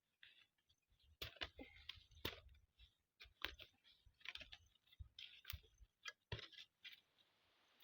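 Faint, irregular clicks and knocks, some with a low thud, spread unevenly through the few seconds.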